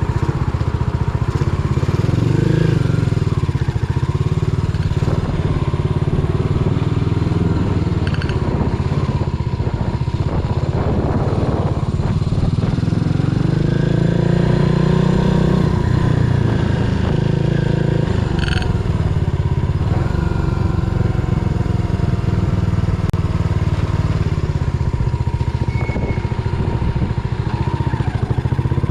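Yamaha SR400's air-cooled single-cylinder engine running on the move, its pitch rising and falling as the bike speeds up and slows.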